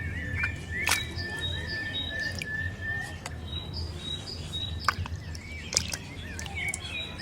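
Birds chirping and calling over a steady low hum, with a few sharp clicks, the loudest about a second in and near five and six seconds.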